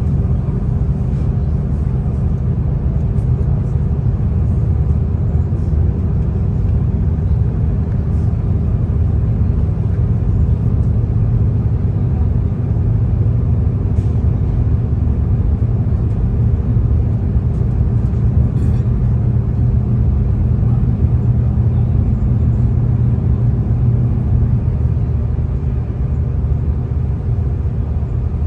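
Steady low rumble of a V/Line diesel train running along the line, heard from inside the carriage, with a few faint clicks.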